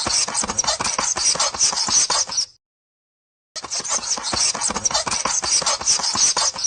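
Rapid, dense scratching and scraping clicks, which stop dead for about a second midway and then resume.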